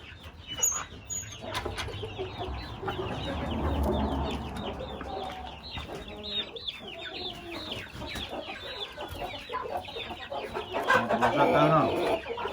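A flock of chickens clucking, with many short calls overlapping one another and getting louder near the end.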